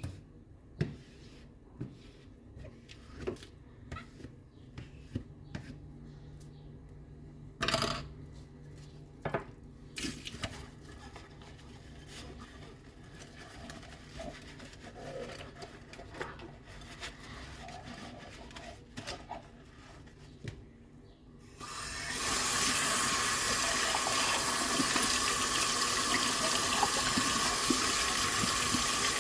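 Dishes being handled at a sink, with scattered clinks and knocks. About three quarters of the way through, a tap is turned on and water runs steadily into the sink.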